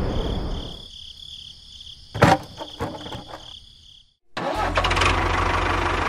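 A rumble fades out, a sharp click sounds about two seconds in, and after a brief cut a small engine is heard running steadily with an even low pulse.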